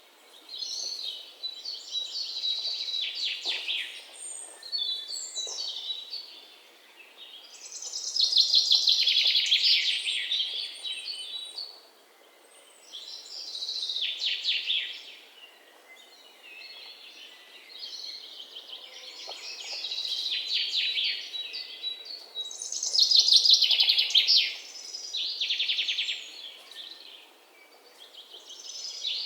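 Songbirds singing: high-pitched phrases of rapid trills and chirps, each a second or two long, coming every few seconds with short pauses between.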